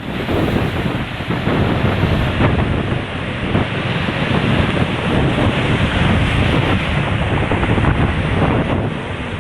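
Strong wind buffeting the microphone: a loud, steady rushing noise, heaviest in the lows.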